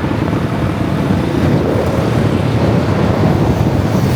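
Motorbike on the move: a steady rush of wind buffeting the microphone over low engine and road rumble.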